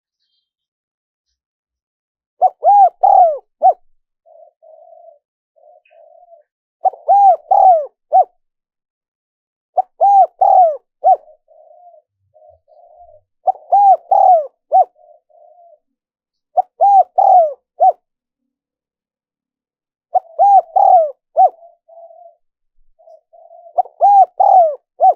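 Spotted dove cooing: seven loud phrases of several rounded coos, one about every three and a half seconds, with softer low coos between them.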